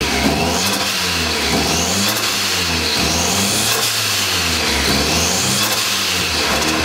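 The turbocharged DOHC engine of a Mazda MX-5 running on its first run and being revved, the pitch rising and falling over and over.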